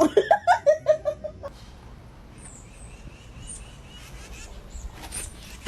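A bird gives a quick run of about eight short, pitched squawks over the first second and a half. Faint high chirps follow a couple of seconds later.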